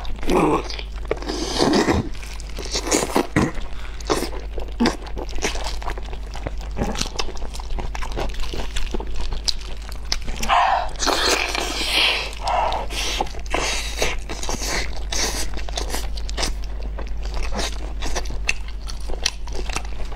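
Close-miked eating of a braised pork knuckle: biting and chewing, with many short wet mouth clicks and a denser stretch of chewing about halfway through.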